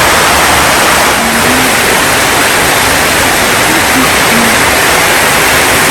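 Rain falling continuously: a loud, even hiss.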